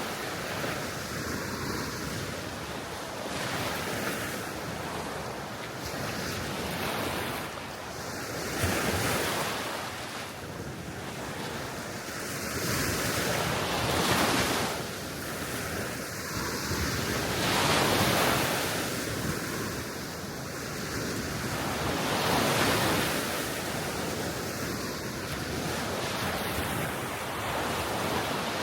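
Small waves breaking and washing on the Baltic Sea shore, swelling and easing every few seconds, with wind buffeting the microphone.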